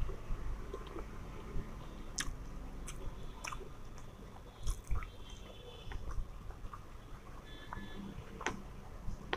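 A person chewing a mouthful of soft fried rice and paneer masala, with scattered sharp wet clicks from the mouth and fingers mixing the rice.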